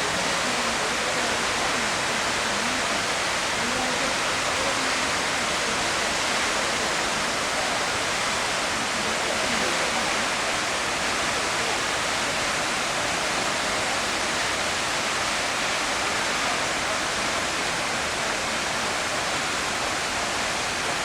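Steady, unbroken rushing of a tall mountain waterfall, the Yonako Great Falls.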